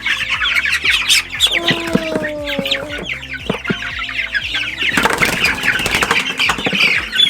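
A flock of young meat-bird chicks peeping rapidly and continuously, with a burst of wing flapping and scuffling about five seconds in as the birds are handled.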